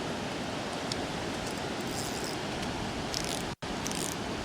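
Steady rushing noise of surf breaking on a sandy beach, cut off to silence for an instant about three and a half seconds in.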